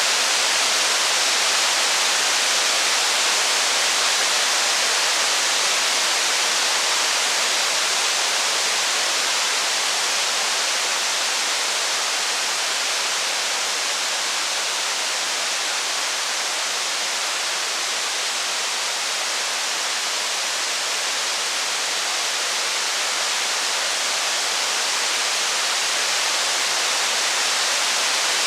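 Steady rain, an even, unbroken hiss with no thunder or fire crackle standing out.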